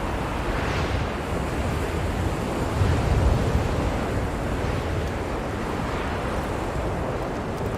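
Blizzard wind blowing hard and steadily with a deep rumble, one stronger gust swelling about three seconds in.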